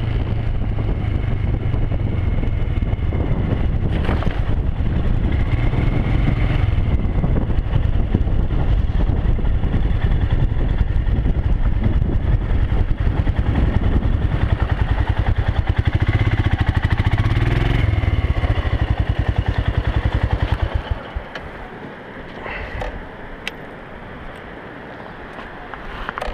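A motorcycle being ridden along a road, its engine running steadily under wind and road noise. About three-quarters of the way through the sound drops off sharply to a quieter hum, with a few light ticks near the end.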